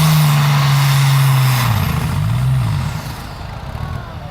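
Pulling tractor's engine running loud at high, steady revs. Partway through, its pitch drops and wavers as it comes off the throttle, and the sound falls away.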